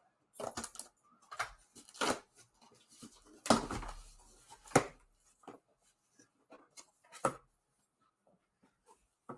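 A box being opened by hand: scattered clicks and scrapes of handling and packaging, a longer rustling stretch about three and a half seconds in, and two sharp knocks, near five and near seven seconds.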